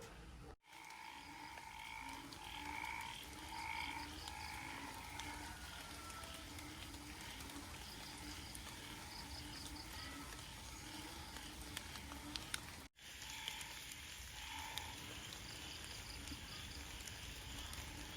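Frogs croaking outdoors: many short, repeated calls over a low ambient background, broken by two sudden brief dropouts, about half a second in and near 13 seconds.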